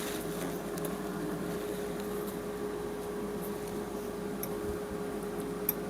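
Steady hum of a fan motor running, with one constant tone in it, and a few faint light clicks, the sharpest near the end.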